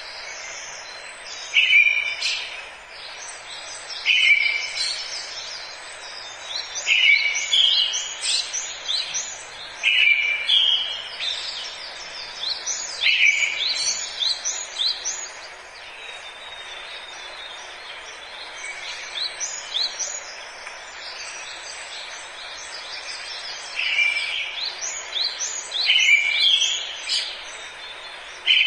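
Forest birdsong: one bird repeats a short, clear phrase every two to three seconds, with many quick, high chirps from other birds between, over a steady background hiss. The phrases thin out in the middle and pick up again near the end.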